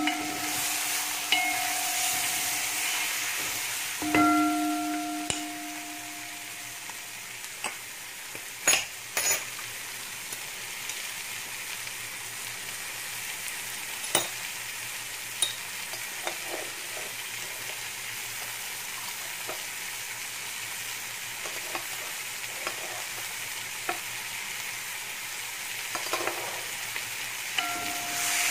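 Chicken pieces sizzling as they fry in a wok, stirred with a wooden spatula that knocks against the pan now and then. A ringing tone sounds at the very start and again, louder, about four seconds in.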